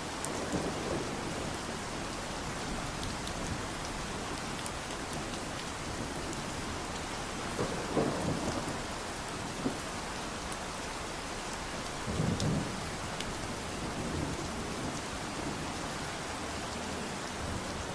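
Steady rain falling, an even hiss, with two brief low rumbles about eight and twelve seconds in.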